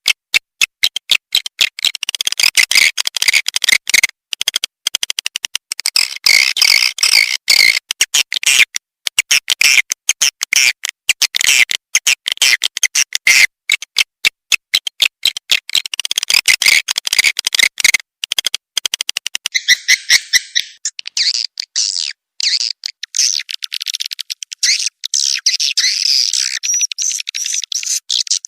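Swiftlet lure recording: dense, rapid twittering and clicking calls of swiftlets, looped as a call-and-roost sound to draw birds into a swiftlet house. About 22 seconds in, the sound turns thinner and higher.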